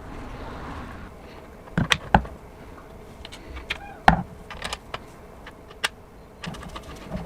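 Tools and small metal parts being handled on a workbench: scattered clicks and knocks, the loudest two close together about two seconds in and another about four seconds in.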